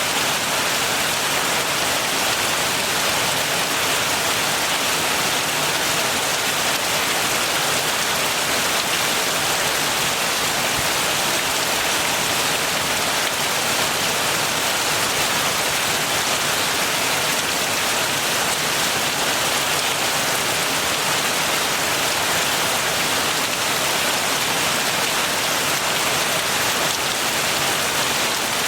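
Steady heavy rain falling, an even hiss with no change in strength.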